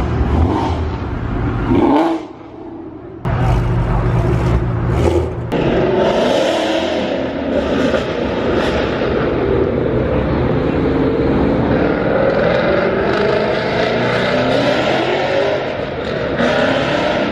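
Loud car engines and exhausts driving past and revving, their pitch rising and falling, with a few abrupt breaks in the first five seconds or so.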